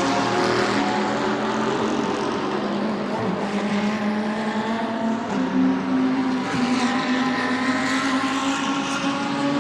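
GT3 race car engines running at a steady, held pitch as the cars drive out along the pit lane, several engine notes overlapping. About five seconds in, a slightly higher engine note takes over.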